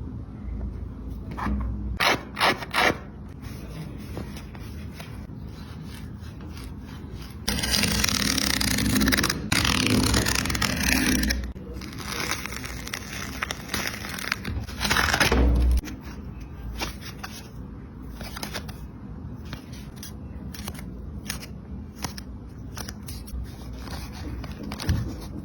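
Scraping and cutting noises from a Puma LaMelo Ball MB.01 basketball shoe being taken apart with hand tools. A few short sharp strokes come about two seconds in, a longer, louder stretch of scraping runs from about eight to eleven seconds in, and another loud burst follows near the fifteen-second mark.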